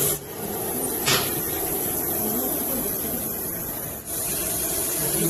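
Snake hissing: one short, sharp hiss about a second in, over steady background noise.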